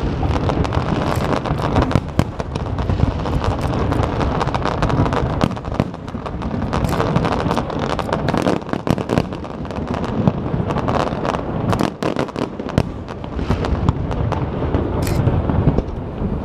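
Aerial fireworks going off continuously: many irregular sharp bangs and crackles over a steady low rumble.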